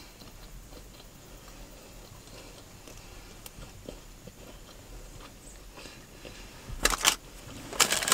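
A person eating fast food close to the microphone: quiet chewing with small mouth clicks, then two loud crackling bursts about seven and eight seconds in.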